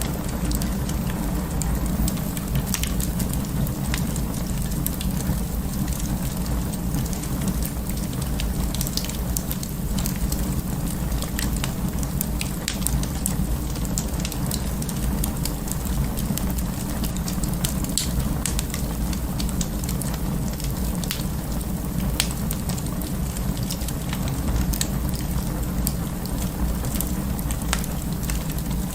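Wood fire burning in an open fireplace: a steady low rumble with frequent, irregular sharp crackles and pops.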